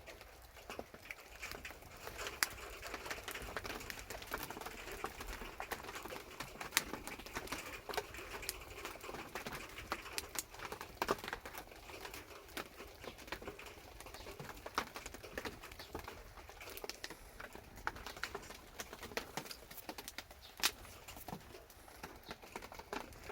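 Wood fire crackling in a can stove, with light rain pattering on a corrugated roof: a dense run of irregular small clicks and taps over a soft steady hiss.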